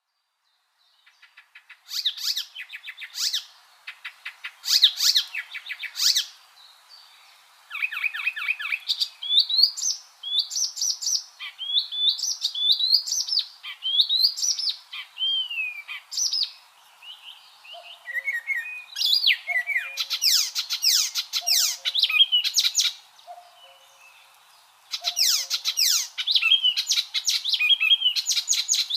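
Icterine warbler singing: a fast, varied song of rapid repeated chattering notes, gliding whistles and harsher phrases, in bursts separated by short pauses.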